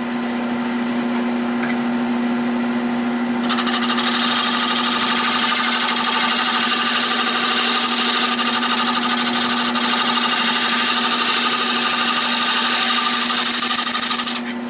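Nova 16/24 wood lathe running with a steady motor hum. About three and a half seconds in, a turning tool starts cutting the spinning oak bowl, adding a louder, even hissing scrape that lasts until just before the end.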